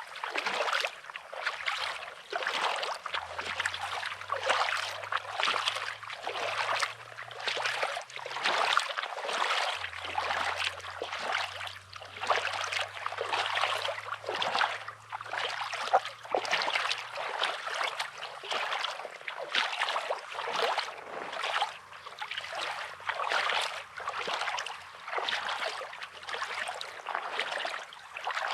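Footsteps crunching on pebbly sand at a walking pace, over the wash of small waves on the shore.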